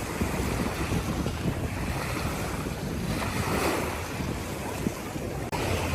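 Seaside waves washing on the shore with wind buffeting the microphone, a steady noisy rush with a brief sudden dropout near the end.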